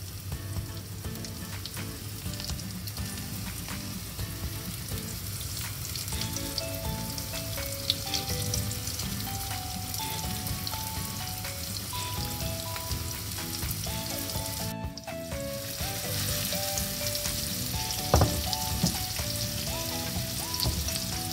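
Semolina-coated prawns sizzling steadily as they shallow-fry in hot oil in a pan. Soft background music with a simple melody comes in about six seconds in.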